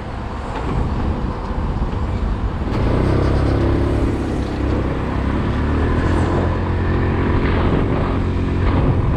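Motorcycle engine running under a rush of wind noise. About three seconds in it grows louder and its pitch rises and shifts as the bike accelerates.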